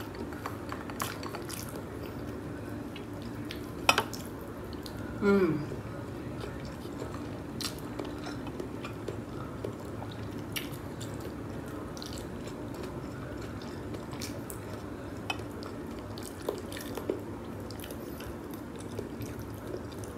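Close-up eating sounds: wet chewing and small clicks of mouth and food against a steady low hum. There is a sharp click about four seconds in and a short sound falling in pitch a second later.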